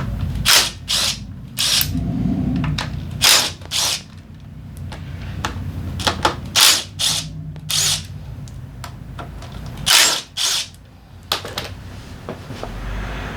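A power tool run in about a dozen short, irregular bursts during the disassembly of a Honda PCX 125 engine.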